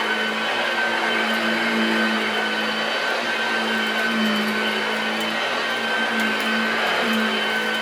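Hoover 1348 lightweight upright vacuum cleaner running steadily: an even motor hum with a constant high whine over the rush of air.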